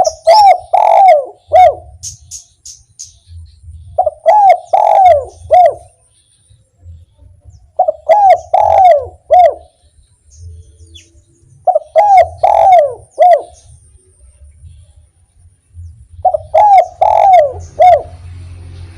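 Spotted dove (derkuku) singing its 'kuk 1' coo song. It gives a phrase of about four coo notes five times, about every four seconds. Faint high chirps of another small bird come between the first two phrases.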